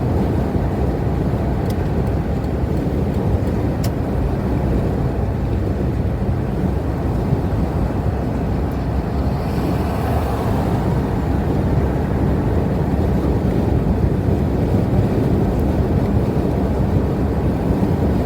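Road noise inside a moving car at highway speed: a steady rumble of engine and tyres on the road.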